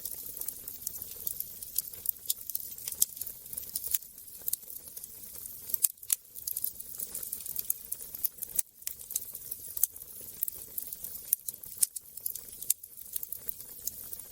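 Wood fire burning in a fireplace: irregular crackles and pops over a soft steady hiss, with a couple of louder pops about six and nine seconds in.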